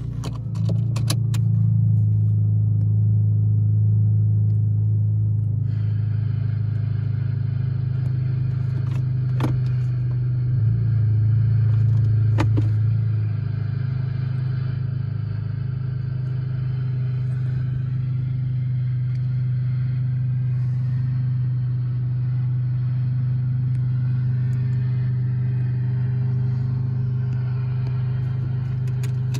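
Honda Civic Sport's 1.5-litre turbocharged four-cylinder engine idling steadily, heard from inside the cabin as a low hum. There are a few light clicks, and a higher hiss joins in about six seconds in.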